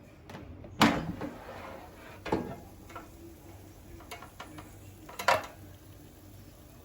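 A few sharp knocks and clatters of household handling. The loudest comes about a second in, with two more later and some fainter clicks between.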